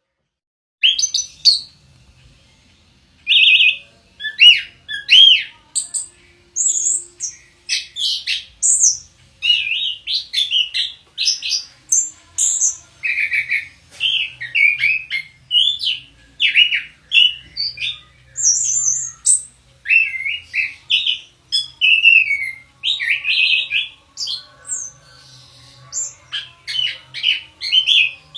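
Orange-headed thrush (anis kembang) singing: a long, nearly unbroken run of short, high, varied notes that slide up and down, starting about a second in.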